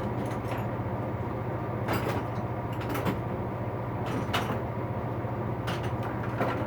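Steady low hum of an electric shop fan, with a few separate clinks and clatters as hand tools are lifted out of a tool box and set down.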